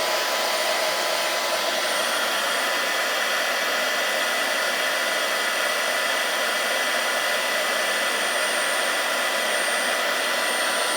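Fanttik Slim V8 Mate cordless handheld car vacuum running at its high speed setting: a steady rush of air with an even, unwavering motor whine.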